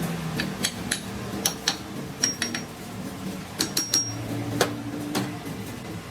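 Irregular light metallic clinks and taps, about a dozen, some ringing briefly: steel tools or parts knocking together during a gear shaft repair, over a low steady hum.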